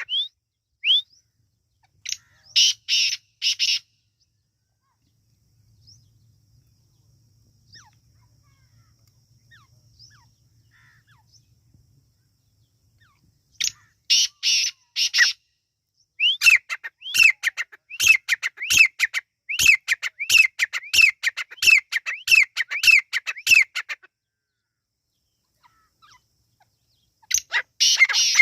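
Francolin (teetar) calling in bouts of sharp, repeated high notes. There is a short burst near the start, a quiet gap of about ten seconds, then a long run of about two notes a second in the second half and another burst near the end.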